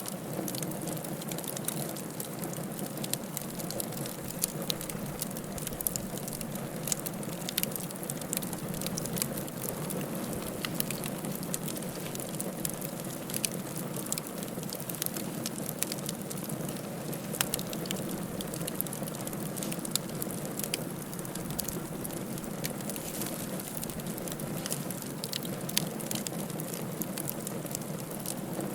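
Wood fire burning in a fireplace: a steady hiss of flames with frequent small crackles and pops scattered irregularly throughout.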